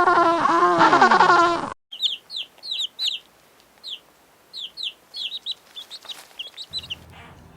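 A loud, drawn-out animal cry with wavering pitch cuts off suddenly before two seconds in. Then comes a string of short, high, falling peeps from chicks, a couple each second.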